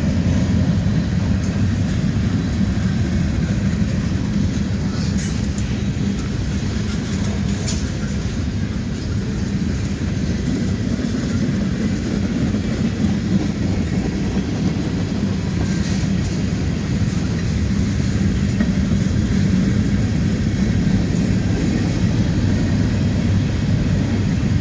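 Train rolling past: a steady low rumble of wheels on rail, with a few faint high clicks now and then.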